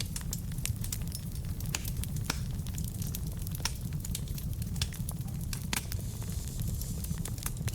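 Wood fire of logs burning in a fireplace, crackling with many irregular sharp pops over a steady low rumble of the flames.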